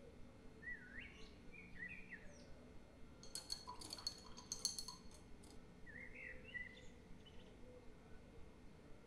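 Small birds chirping in short rising phrases, with a quick run of sharp clicks about halfway through.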